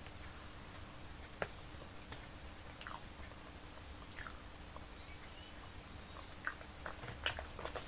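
A person chewing a mouthful of soft banana close to the microphone: scattered wet mouth clicks and smacks, about a second apart, over a faint steady hum.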